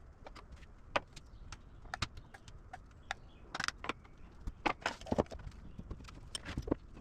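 Irregular light clicks and knocks, a few a second, busier in the middle.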